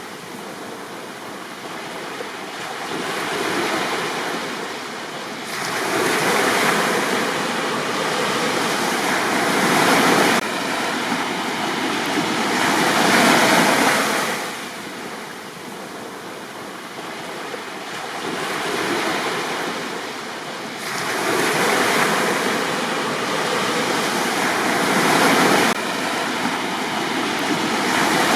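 Gentle sea waves breaking and washing up a beach, the surf swelling and fading in repeated surges every several seconds.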